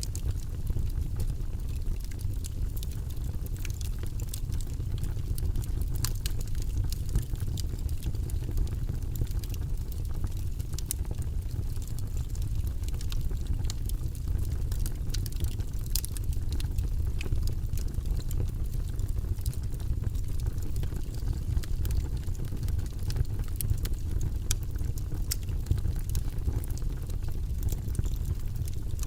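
Wood fire in a fireplace burning steadily: a low rumble of the flames with frequent sharp crackles and pops from the burning logs.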